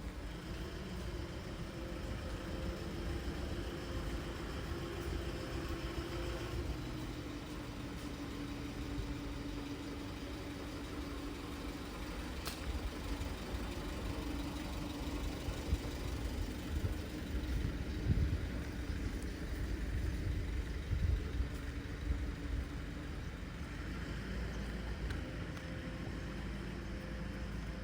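A motor vehicle's engine running on a city street: a steady low hum and rumble, with louder rumbles in the second half.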